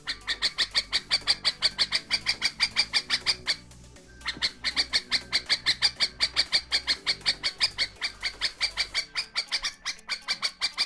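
Pet bulbul giving an alarm call: a fast, even run of sharp repeated notes, about eight a second, broken by a brief pause about three and a half seconds in. The owner takes it for a warning.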